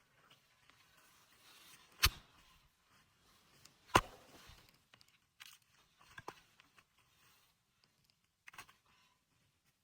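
Two sharp knocks about two seconds apart, the second louder, then a few lighter knocks and crunching sounds.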